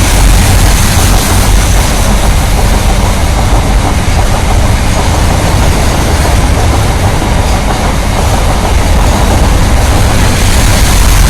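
Freight train of BOXN wagons passing close: a loud, steady rumble and rattle of wheels on the rails.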